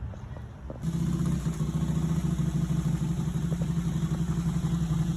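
Harley-Davidson motorcycle engine idling with a fast, even pulsing, loud and close from about a second in.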